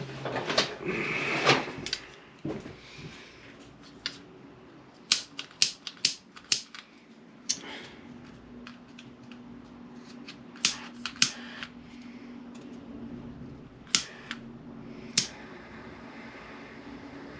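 Handheld torch being lit: a run of sharp separate igniter clicks over several seconds, then a faint steady hiss near the end as the flame burns.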